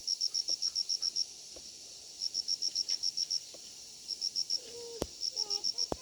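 Insect chirping, cricket-like, in trains of quick high pulses, about ten a second, with short pauses between the trains. A single sharp click about five seconds in, followed by a few faint short calls near the end.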